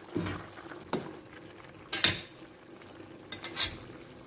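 A metal utensil clinking and knocking against a pot and a metal baking pan as pieces of cooked beef are lifted across, four separate knocks with the loudest about two seconds in.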